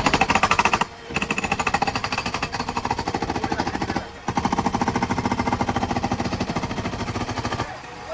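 Hydraulic breaker hammering in three long bursts of rapid, evenly spaced blows, stopping briefly about a second in and again about four seconds in.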